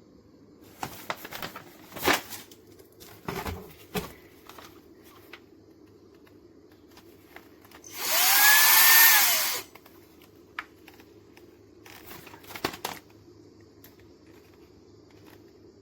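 Shark PowerPro cordless stick vacuum switched on briefly, running for about a second and a half with a motor tone that rises and then falls as it shuts off. Clicks and knocks of the vacuum being handled come before and after.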